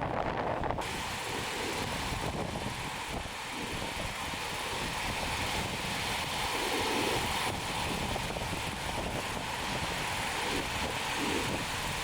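Strong wind buffeting the microphone: a steady, rushing noise with an uneven low rumble.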